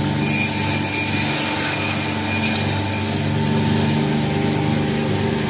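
360E meat-and-bone band saw running with a steady hum while cutting meat.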